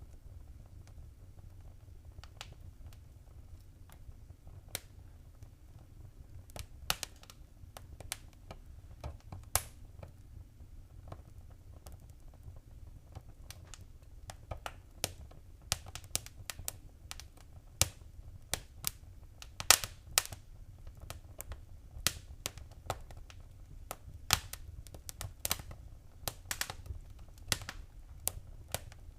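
Wood fire in a fireplace crackling: irregular sharp pops and snaps over a low steady rumble. The pops are sparse at first and come thicker and louder from about halfway through.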